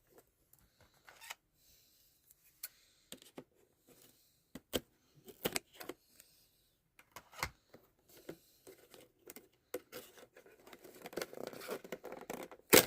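A cardboard toy box being opened by hand: scattered clicks and taps of the packaging being handled, then rustling and tearing near the end, finishing with a sharp snap.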